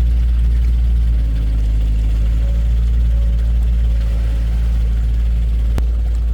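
Heavy diesel engine of an excavator or dump truck running steadily at a low, even drone, with a single sharp click near the end.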